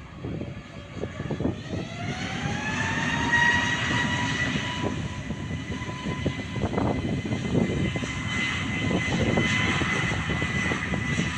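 Jet airliner engines spooling up at the airport: a whine rises in pitch over the first few seconds, then holds steady over a growing rumble as the engines reach high thrust.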